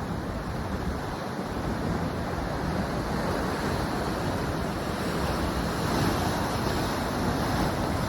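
Ocean surf breaking and washing ashore in a steady rush, with wind on the microphone. It swells a little about six seconds in.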